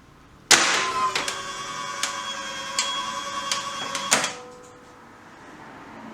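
Hyundai HGN08 air circuit breaker's mechanism starting abruptly and running with a steady mechanical whirr and a few clicks for about three and a half seconds, then stopping with a loud clack.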